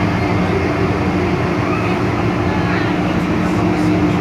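MTR M-Train electric multiple unit running, heard from inside the passenger car: a loud, steady rumble of wheels and car body with a steady motor hum underneath.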